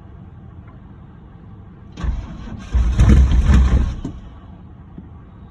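A Chevrolet small-block V8 in a third-generation Camaro is cranked on the starter for about two seconds, starting about two seconds in, with a brief break partway through. It does not catch, the sign of a no-start after long sitting.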